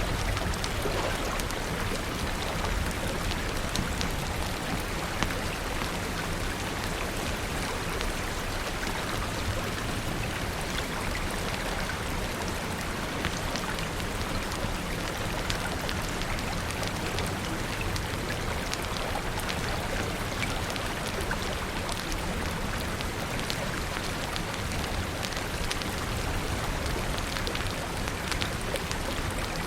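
Steady rain falling, a constant hiss with a dense patter of individual drops ticking on surfaces.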